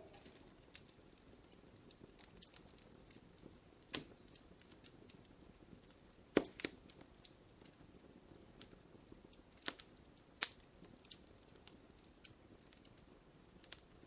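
Wood fire crackling in a fireplace: irregular sharp pops and snaps over a faint steady hiss, the loudest pop about six seconds in and a few more around four and ten seconds in.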